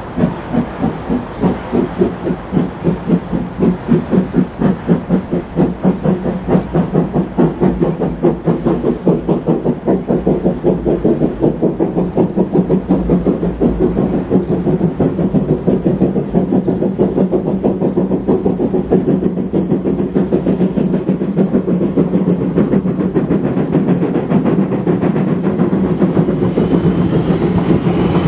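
Steam locomotive working hard as it pulls away, its exhaust beats quickening from about two a second to a rapid chatter as it gathers speed, with a hiss rising near the end.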